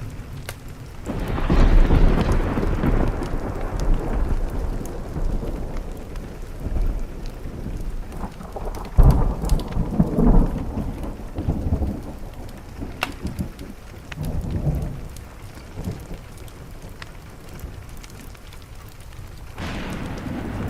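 Thunderstorm with steady rain on a window: rolling thunder rumbles that swell about a second in, build to their loudest around the middle, fade, and start again near the end. Scattered small crackles from a wood fire sound under the rain.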